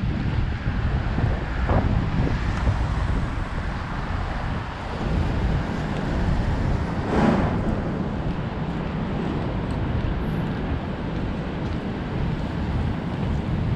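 Wind rushing over the microphone of a moving bike, with steady road and engine-like rumble in the low end and one brief louder swell about seven seconds in.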